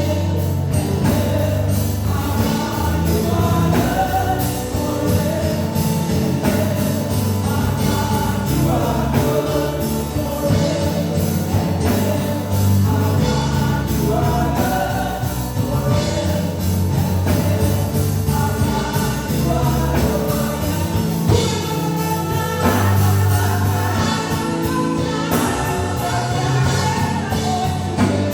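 Live gospel worship music: a choir and singers over a band with a steady bass.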